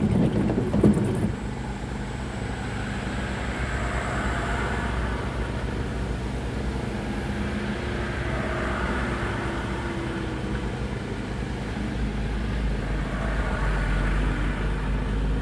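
Truck on the move: its engine runs steadily under road noise, with a short rattling clatter about a second in.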